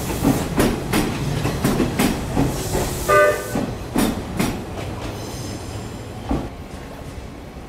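Nishitetsu 5000-series electric train moving off past the platform, its wheels clacking over the rail joints at a steady rhythm that dies away after about four and a half seconds as the last car leaves. A short, high pitched tone sounds about three seconds in.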